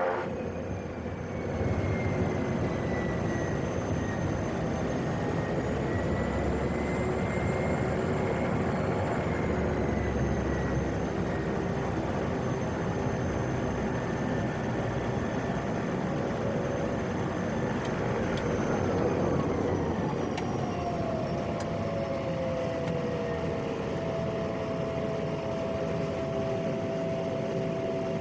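PAC 750XL's single turboprop engine and propeller running. About 18 s in, the engine whine falls in pitch as power comes back, then settles into a steady lower tone.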